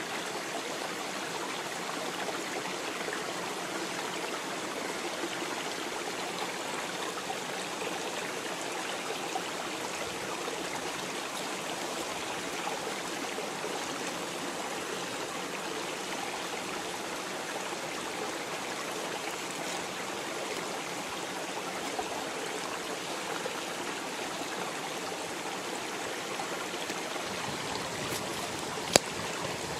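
Steady rush of flowing water, like a stream, with one sharp click near the end.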